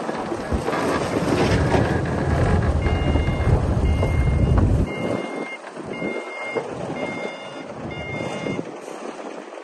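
Heavy diesel engine of a Komatsu D60P bulldozer running hard, easing off about halfway through, while a reversing alarm beeps about six times at an even pace.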